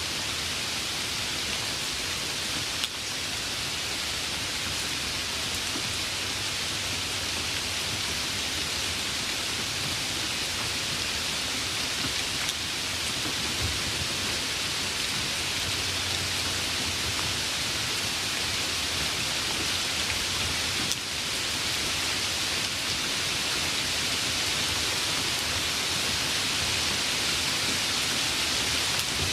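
Steady, even rainfall, a dense hiss of rain with no let-up. A faint low rumble of distant thunder comes through in the middle.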